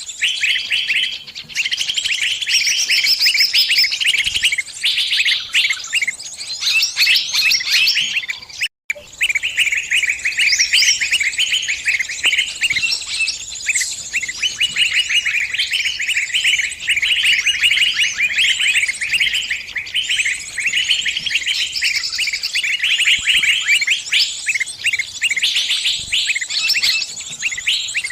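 A small bird's rapid, high-pitched distress chirping, repeated without pause: the cries of a trapped bird calling to other birds for help. There is a brief gap in the sound about nine seconds in.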